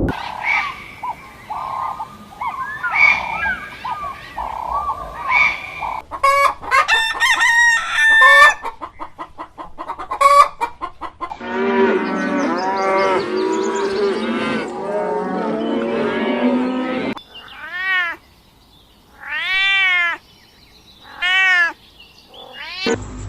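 Chickens calling: hens clucking and a rooster crowing in a series of separate calls, ending with three rising-and-falling calls about a second long, spaced apart.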